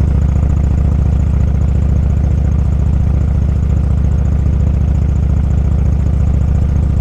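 Motorcycle engine running at a steady, even speed: a low, pulsing rumble that holds one pitch without revving.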